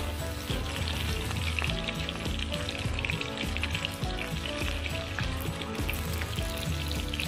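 Chicken pieces sizzling and crackling in hot oil in a metal kadai, stirred with a metal spatula.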